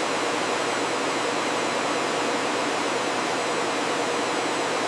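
A steady, even rushing noise with no rhythm or changes.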